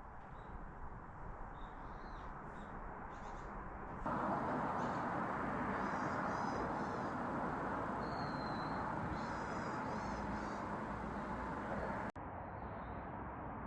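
Small birds chirping with short repeated calls and one thin whistle, over a steady rushing outdoor background that gets louder about four seconds in and drops back abruptly near the end.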